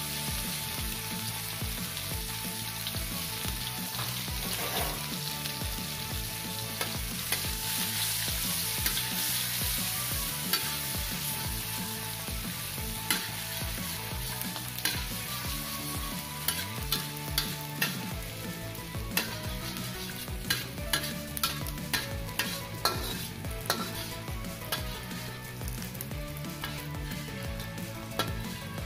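Finely sliced salted fish frying in hot oil in a metal wok, with a steady sizzle. A metal spatula scrapes and clacks against the wok as it is stirred, and the clacks come thick and fast in the second half.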